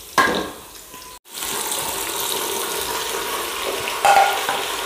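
Onions frying in hot oil in an aluminium pot: a steady sizzling hiss, with a sharp ladle scrape just after the start and a louder clatter about four seconds in.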